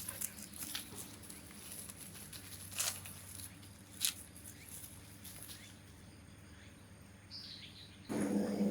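Quiet outdoor ambience with faint, high insect buzzing and a few soft clicks. A short falling chirp comes near the end, and a louder sound cuts in just before the end.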